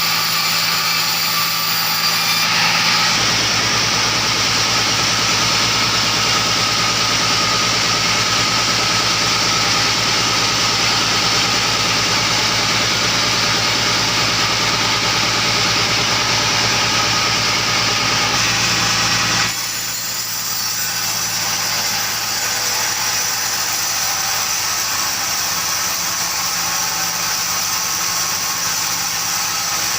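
An engine-driven saw running steadily at high revs. About three seconds in, a deeper sound comes in, and it drops away again about two-thirds of the way through.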